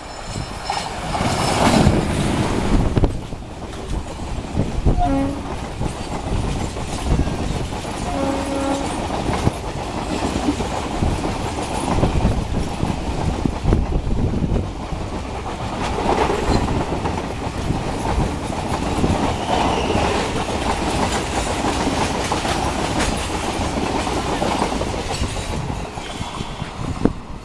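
Indian Railways express train passing close at speed: first the WAP-4 electric locomotive, loudest about two seconds in, then its long rake of coaches. The coaches rush and rattle, with a steady clickety-clack of wheels over rail joints.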